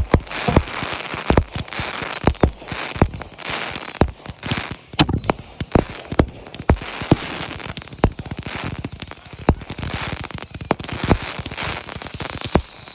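Fireworks going off in rapid succession: sharp bangs about once or twice a second over a crackling hiss, with repeated whistles that fall in pitch. Several whistles overlap near the end.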